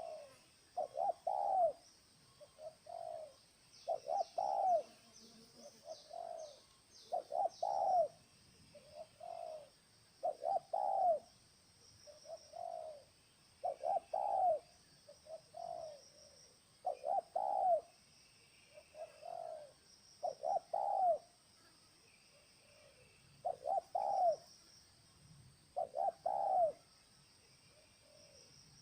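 Spotted doves cooing their repeated three-part 'ter-kuk-kur' phrase about every one and a half seconds, a louder and a fainter bird alternating as if calling and answering. A small bird chirps briefly about four to seven seconds in.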